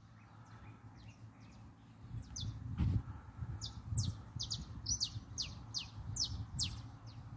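Wild birds chirping: many short, high, downward-sliding notes in quick succession, growing busier about two seconds in, over a steady low rumble. A single knock near the middle.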